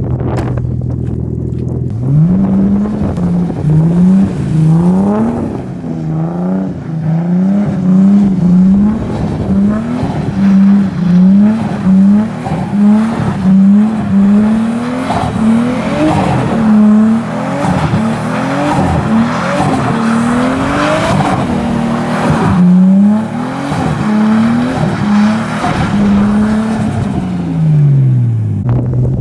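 Nissan R32 Skyline GTS-t's turbocharged straight-six held at high revs through tight drifts in snow. The revs dip and climb again about once a second as the throttle is worked. It rises from idle about two seconds in and falls back to idle near the end.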